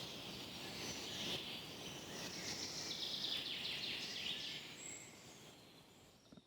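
Tropical rainforest ambience: many birds chirping and calling in quick repeated notes over a soft hiss, fading away over the last two seconds.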